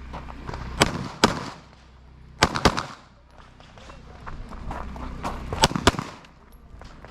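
Pistol shots fired during a timed IPSC practical-shooting stage: a pair of shots, then a quick string of three, a pause, and another quick string of three, with shuffling movement between the strings.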